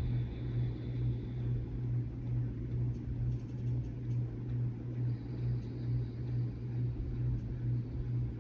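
A steady low hum that swells and fades gently at an even pace, with no other distinct sound.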